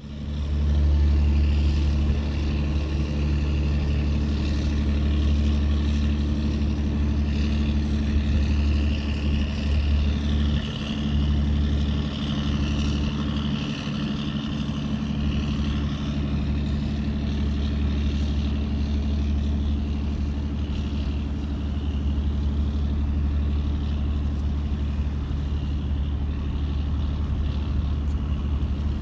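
A ship's engine running steadily with a deep, even hum, with a hiss of wind or water that swells about ten to fifteen seconds in.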